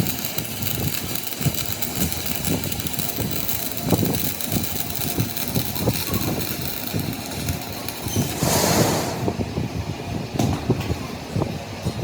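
Engine running, with irregular low knocks throughout and a short burst of hiss about eight seconds in.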